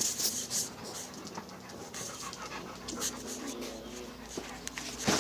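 A dog panting, quick breaths that are strongest in the first second and then go on more loosely.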